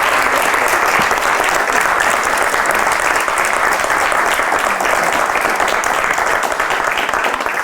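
Audience applauding, many hands clapping together in a dense, steady wash.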